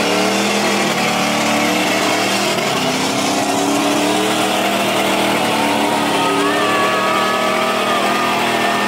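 A car's engine revving hard and held at high revs during a smoky burnout, its pitch rising and falling over the roar of the spinning tyres.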